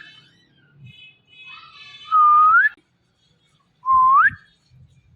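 Indian ringneck parrot whistling: two clear whistles about two seconds apart, each a held note that sweeps up at the end, the second shorter.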